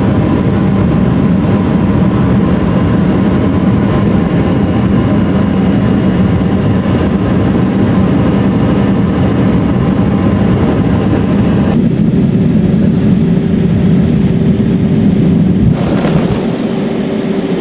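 Boeing 707 jet engines running, a loud steady noise with a constant low hum. The sound changes about twelve seconds in, when the high hiss drops away and a steady higher tone comes in, and again about four seconds later.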